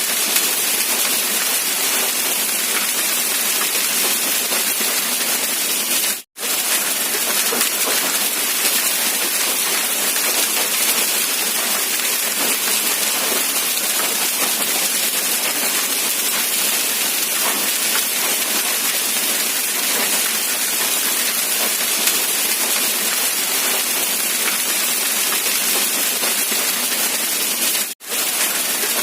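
Steady rain falling with an even hiss. The sound drops out for an instant twice, about six seconds in and again near the end.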